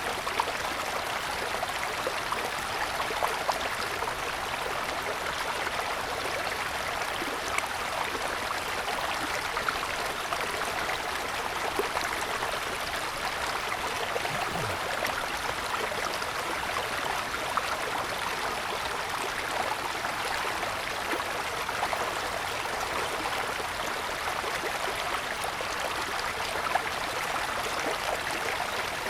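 Small mountain stream flowing over snow-covered stones: a steady babbling rush with scattered little splashes.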